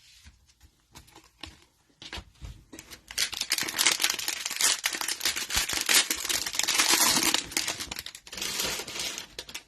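Cellophane wrapper of a trading-card cello pack crinkling as it is torn open and crumpled, after a few light clicks of cards being handled. The crinkling starts about three seconds in, runs for several seconds and comes back briefly near the end.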